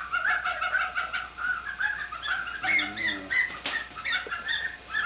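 A flock of chickens calling, many short clucks and squawks overlapping without a break.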